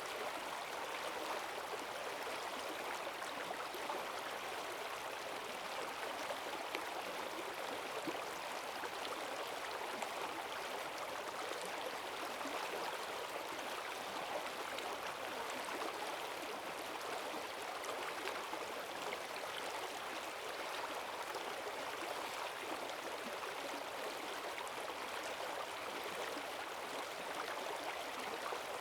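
A forest stream running high after heavy rain, its strong current rushing and gurgling steadily with no pauses.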